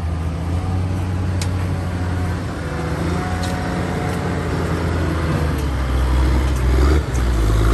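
Big truck's engine running with a deep steady hum, growing louder about six seconds in, with a brief dip just before the end.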